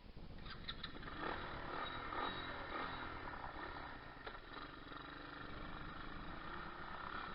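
125cc pit bike's single-cylinder four-stroke engine running, its pitch rising and falling for the first few seconds, then holding a steadier note. A few short clicks come near the start and once more midway.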